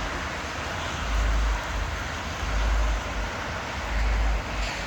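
Wind buffeting the microphone in three gusts, as low rumbles about one, two and a half and four seconds in, over a steady outdoor hiss of city traffic.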